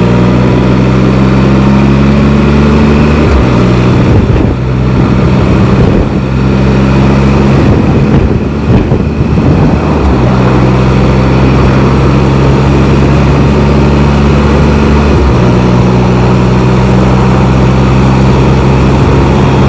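Can-Am Spyder three-wheeled motorcycle's engine running at a steady pitch while riding. Between about three and ten seconds in, the hum is broken up by rough noise, and it shifts pitch about fifteen seconds in.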